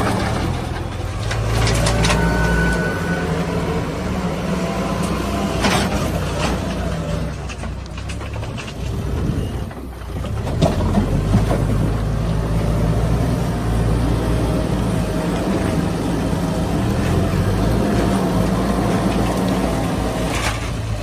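Heavy diesel engine running at working load, its note shifting up and down, with a few sharp knocks: about two seconds in, about six seconds in, and near the end.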